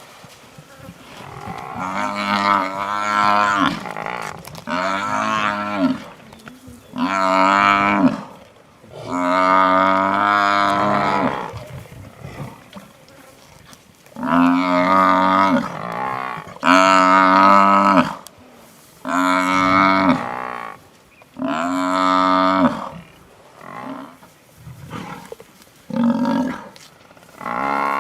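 A buffalo bellowing over and over: about ten long, drawn-out moaning calls, each a second or two, coming every two seconds or so, the distress bellows of a buffalo being brought down by lions.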